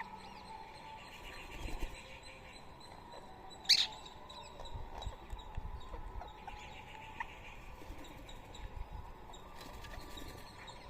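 Rose-ringed parakeets calling: one loud, short, shrill screech about four seconds in, with softer rapid chirping before and after it.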